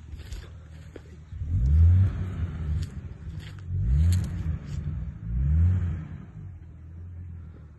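Nissan Patrol's turbocharged RB25DET Neo straight-six engine revving hard three times, about two seconds apart, each rev rising sharply and then dropping back. A few sharp clicks are heard between the revs.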